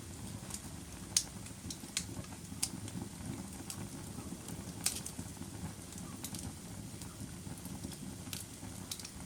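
Wood fire in a fireplace crackling: irregular sharp pops and snaps, a few louder ones about a second in, near three and five seconds and near the end, over a steady low rumble of the flames.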